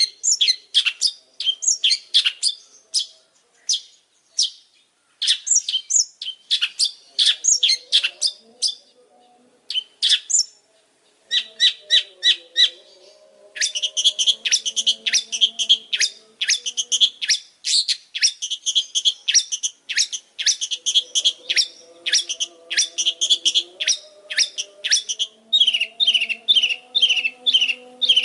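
Long-tailed shrike singing a fast, chattering song of sharp, high notes in long quick runs, with a few short pauses.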